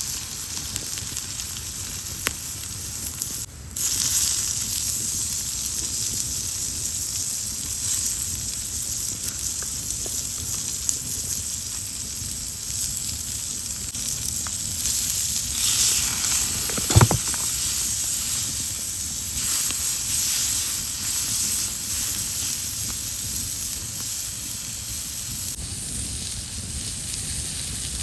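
Wood fire burning: a steady hiss with scattered small crackles, and one loud pop about seventeen seconds in.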